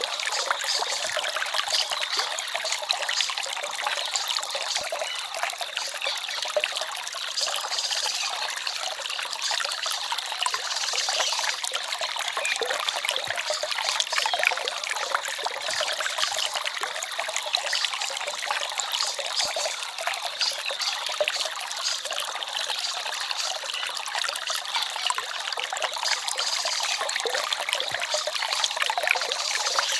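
Forest stream flowing: a steady babbling trickle of water, even throughout with no distinct events.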